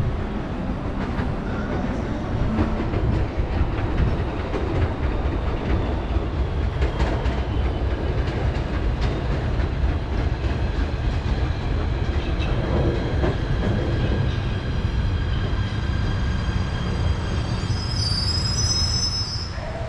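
Train running along the tracks with a steady heavy rumble and scattered wheel clicks. Near the end come thin, high-pitched wheel squeals in several tones.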